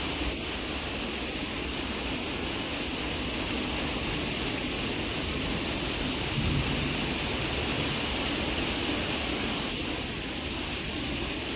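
Heavy rain falling steadily on a backyard pool and yard, an even hiss of drops with no let-up. A brief low rumble rises about halfway through.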